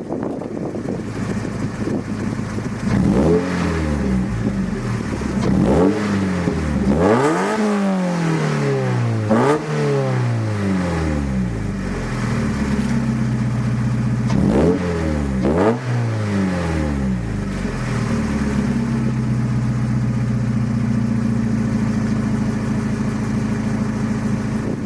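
Mazda Roadster NB8C's 1.8-litre four-cylinder engine through a one-off titanium muffler, idling, then revved in about six quick throttle blips that rise and fall in pitch, before settling back to a steady idle for the last several seconds.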